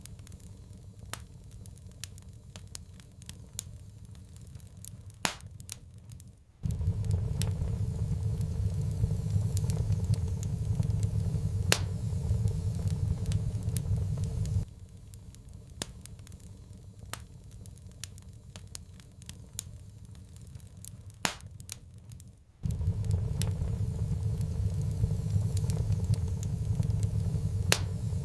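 Wood fire crackling with scattered sharp pops. A low rumble comes in abruptly about six seconds in, drops out about eight seconds later, and returns near the end.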